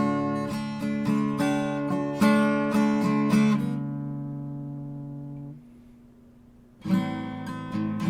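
Art & Lutherie Wild Cherry acoustic guitar strummed, with a chord left ringing and fading out for a couple of seconds. Strumming starts again near the end.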